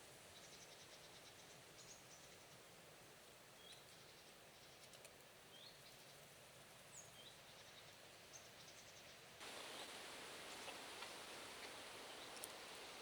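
Faint forest ambience with a few short, high bird chirps. About nine seconds in, the steady background hiss abruptly gets louder.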